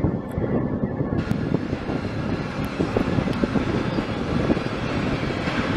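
Intermodal freight train cars rolling past: a steady rumble of steel wheels on rail with a rapid, uneven clatter.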